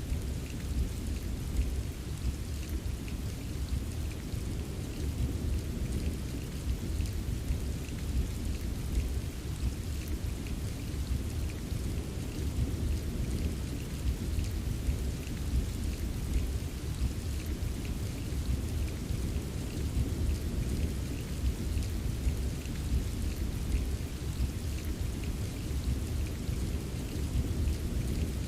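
Steady rain with many small drop taps, over a continuous low rumble of rolling thunder.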